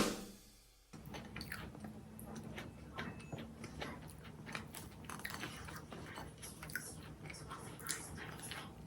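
A person chewing and biting crunchy food close up, with a run of small irregular crunches and crackles.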